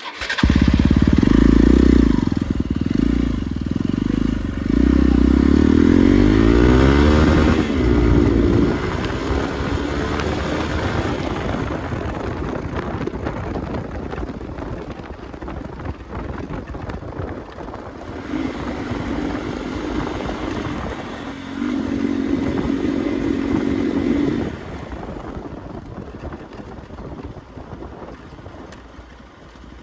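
Hero XPulse dual-sport motorcycle's single-cylinder engine under hard throttle off-road, its pitch climbing repeatedly as it accelerates through the gears in the first several seconds. It then runs less hard, with another loud steady stretch of throttle about twenty seconds in, and grows quieter near the end.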